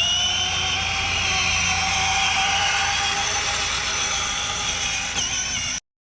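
Child's toddler motorbike running at a steady speed, its motor giving a steady whine over a low hum; the sound cuts off suddenly near the end.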